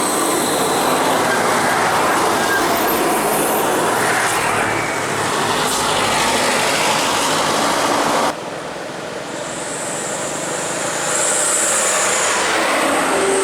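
Scania-engined bus running on the road: steady engine and road noise. About eight seconds in, the level drops abruptly, then rises again.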